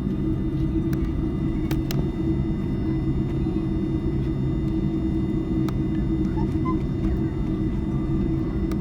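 Steady low drone of an Airbus A310-304's General Electric CF6-80C2 turbofans running at idle, heard inside the passenger cabin, with a steady hum and a few faint clicks.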